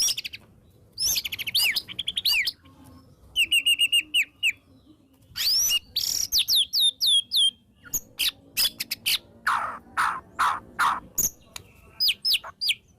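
White-rumped shama singing a varied song in quick phrases: runs of fast repeated notes, sliding whistles and rapid chatters, with short pauses between phrases. The song is full of borrowed notes from other birds.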